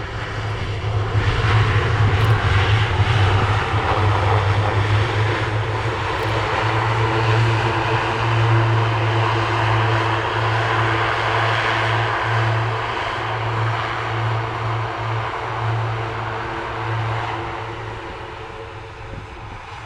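Airbus A400M's four turboprop engines with their eight-bladed propellers, a steady low propeller drone under a broad engine roar, on a short-field landing approach. It swells in the first seconds and eases off near the end.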